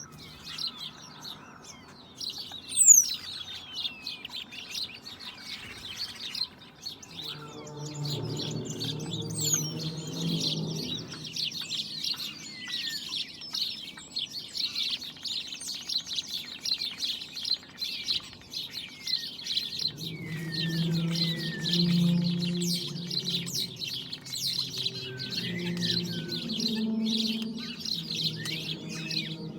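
Many birds chirping and chattering at once in a dense, continuous flock chorus, with quick sweeping calls. A short, loud sound comes about three seconds in. A low, pitched droning comes and goes underneath, about a third of the way in and again for much of the second half; it is of unclear source and is possibly the reported strange sky sound.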